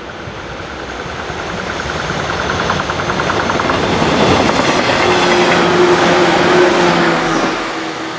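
JR West 475 series electric train passing close by: the rolling noise of its wheels on the rails grows louder as it approaches, with a fast even clatter early on, then a steady hum as it goes past, easing off near the end.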